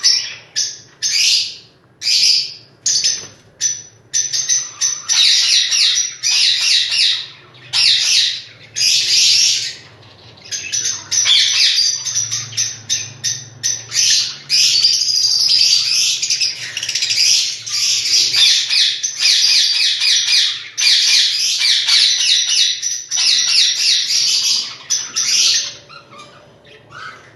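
Pet parrot chattering in a long run of rapid, high chirps and squawks, almost without a pause, dying away near the end.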